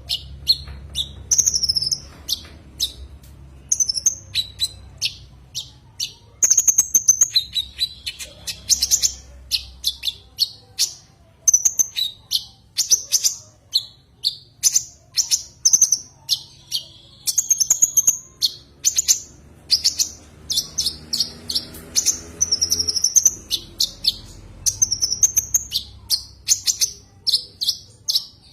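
Brown-throated sunbird (konin) calling in rapid runs of short, high, sharp chirps with brief pauses between them. This is the call used to challenge and lure a rival.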